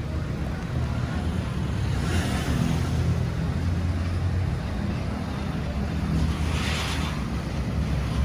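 Car driving, heard from inside: a steady low engine and road rumble, with two brief rushes of hiss, one about two seconds in and one near the end.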